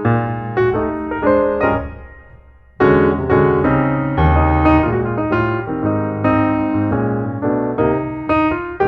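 Piano music: a phrase of single notes fades out about two seconds in, then a new phrase begins with low bass notes under the melody about three seconds in.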